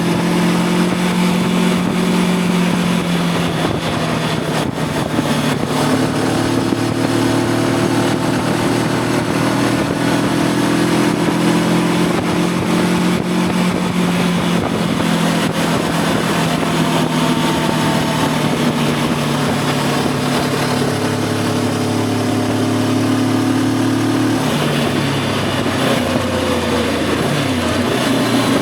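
Voge 525 DSX motorcycle's parallel-twin engine running at a steady cruise under wind noise. Near the end the engine note drops and wavers, as when the throttle is rolled off or a gear is changed.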